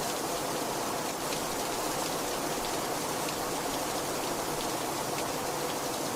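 Heavy rain falling steadily, an even hiss with scattered drop ticks striking a surface.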